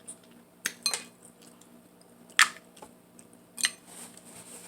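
A few short, sharp clinks of eating utensils against a dish, four separate ones spread over several seconds.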